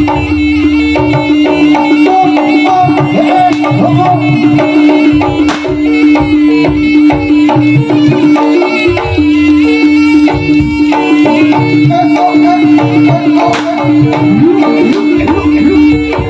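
Live Javanese jaranan ensemble music: kendang hand drums playing a busy rhythm over gamelan percussion, with a steady held note that breaks off briefly about nine seconds in.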